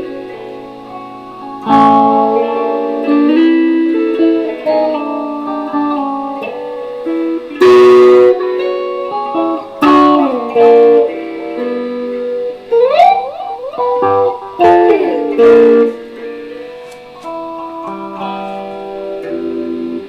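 Electric guitar played solo: picked single notes and chords ringing out, with a few sharp strums and some sliding notes in the second half.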